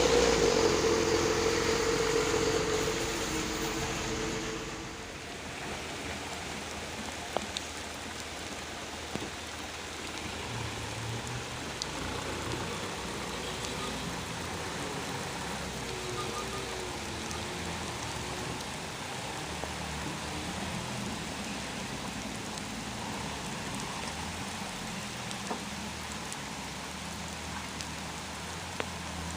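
A truck engine fades away over the first five seconds, leaving steady rain with a few faint ticks of drops.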